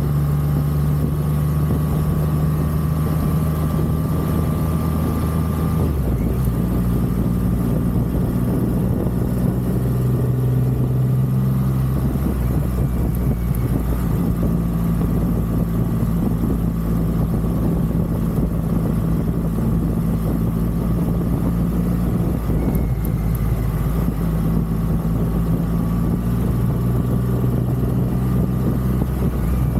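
Triumph Rocket 3 motorcycle's three-cylinder engine running under way, a steady engine note that shifts in pitch about six seconds in.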